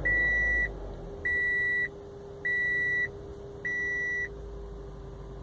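A car's electronic warning chime: four even high beeps, about one every 1.2 seconds, as the ignition is switched on. A steady low hum sets in during the first beep and keeps going, the buzzing noise that the owner says the car makes with the engine on.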